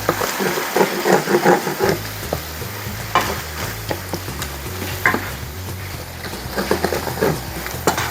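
A pan of sautéed onion, garlic, tomato and tomato sauce sizzling while it is stirred, the utensil scraping and knocking against the pan. There is a quick run of stirring strokes in the first two seconds, then a few single sharp taps.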